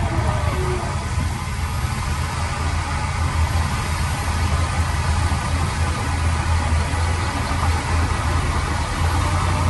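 Heavy construction machine's diesel engine running steadily, a constant low rumble with no changes in pace.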